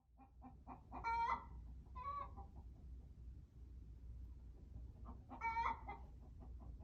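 Birds calling: a quick run of short repeated notes, about four a second, with three louder, longer calls about one, two and five and a half seconds in, over a faint steady low hum.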